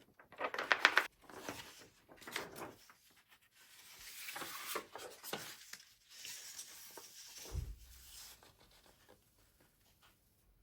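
Plastic model kit parts and packaging being handled on a bench: a quick cluster of sharp clicks about a second in, then rubbing and rustling, and a dull low thump near the end.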